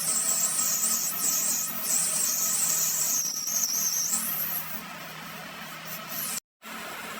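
Metalworking machinery running while cutting steel: a steady hum under a high, shifting hiss. The sound cuts out suddenly for a moment near the end, then a quieter steady hum resumes.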